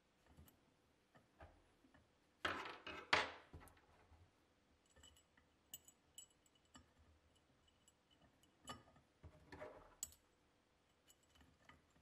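Small metal tool parts being handled: light clicks and ticks, with two short louder scraping slides, one about two and a half seconds in and another near nine seconds.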